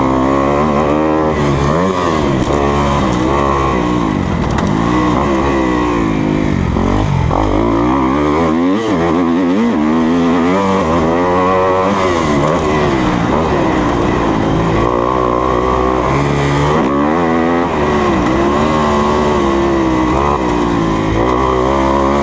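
2020 Kawasaki KX250F four-stroke 250 motocross bike engine, loud and close, revving up and down again and again through gear changes and throttle work while riding a track.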